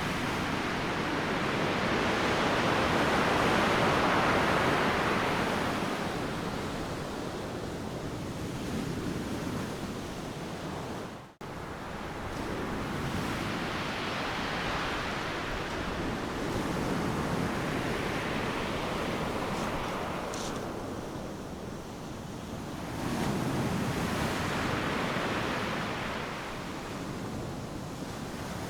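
Ocean surf breaking on a sandy beach: a continuous wash of noise that swells and recedes with each wave, the biggest swell near the start. The sound cuts out for an instant about eleven seconds in.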